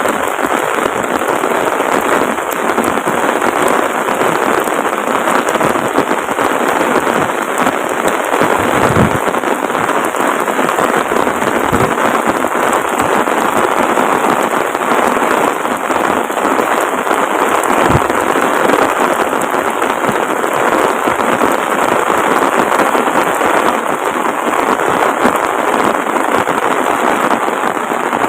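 Heavy rain falling steadily, a dense even hiss of downpour, with a few dull low thumps about 9, 12 and 18 seconds in.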